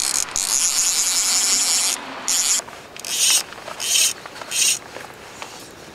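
Fly reel's click-and-pawl ratchet buzzing as line is wound in: one long run of fast clicks, then four short bursts, one per turn of the handle.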